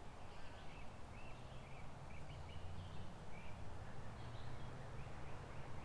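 Small songbirds chirping and twittering in short, repeated notes over a steady low rumble of creek water and wind.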